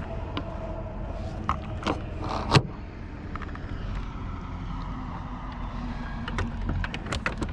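Boat motor running steadily with a low rumble and a faint steady hum, while the fishing boat sits near the rocks. A few light clicks and taps come through, the sharpest about two and a half seconds in.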